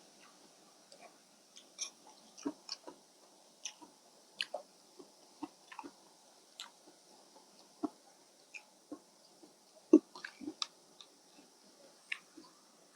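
Close-up eating sounds of a person chewing rice noodles and fish balls: irregular wet smacks and clicks of the mouth, the loudest about ten seconds in.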